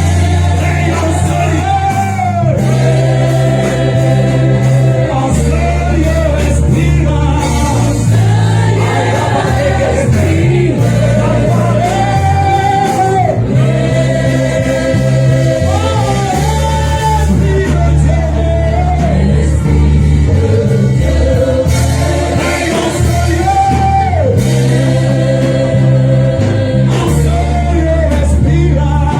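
Gospel worship music: voices singing long held, sliding lines over a band with a heavy, sustained bass line.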